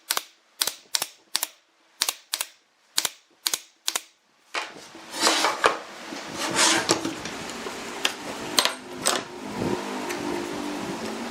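A run of sharp taps or knocks, about two to three a second, stopping about four seconds in. It is followed by a denser, noisier stretch with a few louder strikes over a steady hum.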